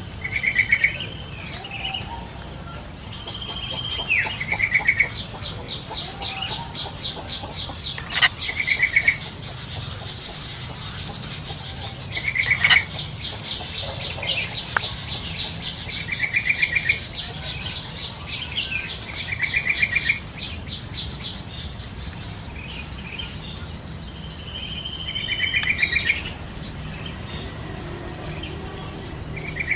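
Yellow-vented bulbuls calling in the wild: short, bubbly phrases recurring every few seconds. A long, fast, even trill runs higher in pitch through the middle, with a few sharp high notes.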